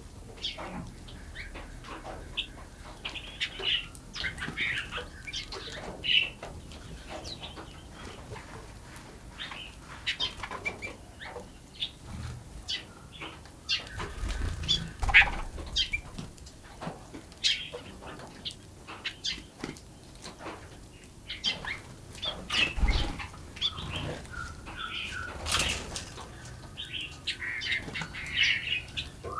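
Small forest birds chirping and calling in many short, scattered notes, with wings fluttering now and then and a few soft low thuds.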